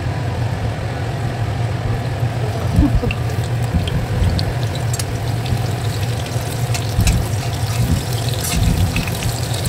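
Stuffed bitter gourds frying in hot oil in a stainless-steel kadhai: a steady sizzle with scattered small crackles and pops, over a steady low hum.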